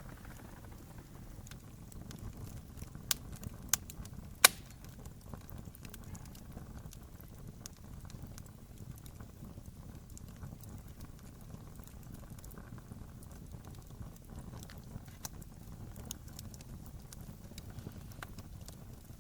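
Wood fire burning with a low rumble and scattered sharp crackles. Three louder pops come about three to four and a half seconds in, the last of them the loudest.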